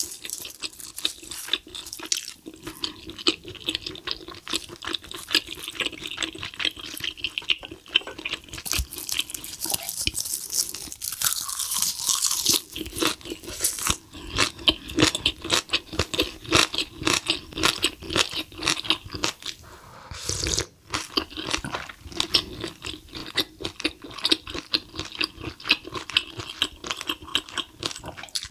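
Close-miked eating: steady chewing and crunching of spicy stir-fried cuttlefish with bean sprouts, in quick wet clicks and crunches, with a longer stretch of hissing noise about nine to thirteen seconds in.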